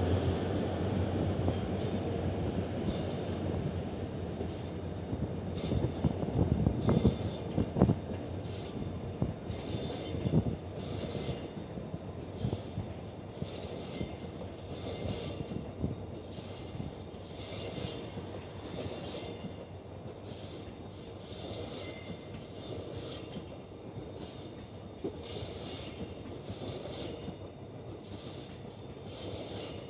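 A diesel locomotive-hauled passenger train passing. The locomotive's engine hum fades in the first seconds, then the coaches' wheels clatter over rail joints and squeal on the rails as the train slowly draws away.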